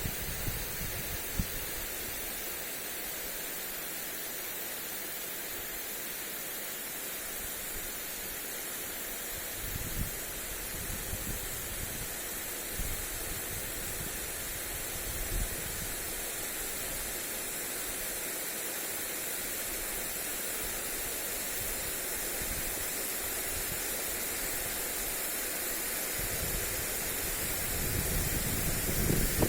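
Steady hiss of water spray from a lawn sprinkler falling on grass, with occasional gusts of wind buffeting the microphone, strongest near the end.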